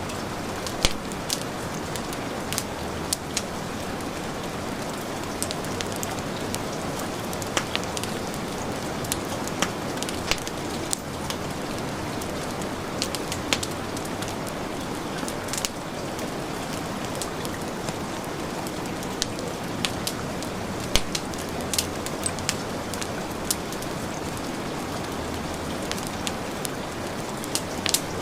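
Steady heavy rain as a dense even hiss, with the irregular sharp pops and crackles of a wood fire burning in a fireplace scattered through it.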